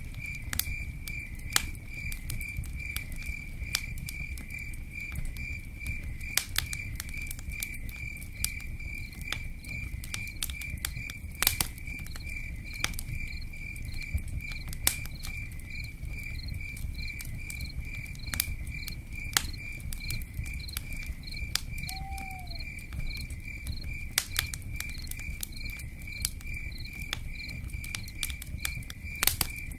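A cricket chirping steadily, about two high chirps a second, over a low steady rumble, with scattered sharp crackles and pops of a campfire or drops.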